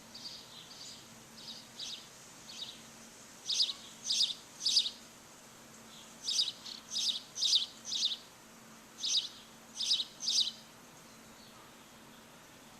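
Songbird chirping: softer chirps at first, then loud, sharp chirps repeated in quick groups of three or four, with a faint steady hum underneath.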